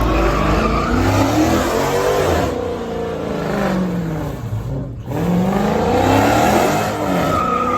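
Car engine revving hard, its pitch sliding down and then climbing again, with a brief dip about five seconds in.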